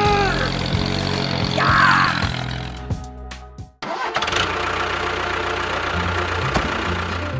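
Background music, joined about four seconds in by a steady engine-like running sound.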